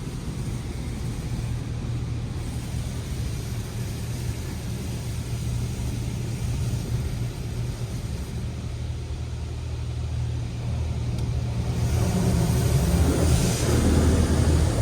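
Automatic touchless car wash heard from inside the car's cabin: a steady low hum, then about twelve seconds in a loud hiss of high-pressure water spray hitting the car body.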